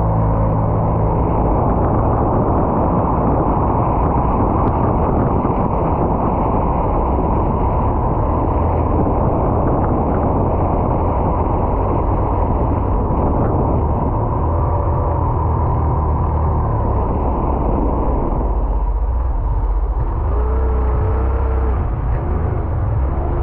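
Sea-Doo personal watercraft running at speed: a steady engine drone under the rush of water and air. Near the end the low drone thins and a rising tone comes in as the engine note changes.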